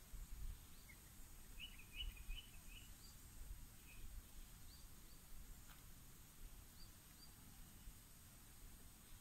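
Quiet outdoor forest ambience with faint bird chirps: a quick run of short chirps about two seconds in, then a few scattered faint calls, over a low rumble.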